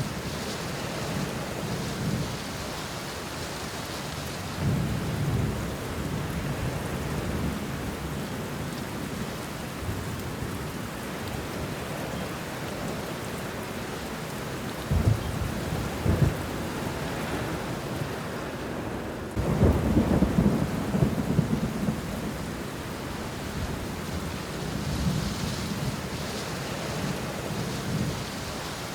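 Steady rain falling on banana leaves and bushes, with rolls of thunder. Two sharp cracks come about halfway through, and the longest, loudest rumble follows a few seconds later.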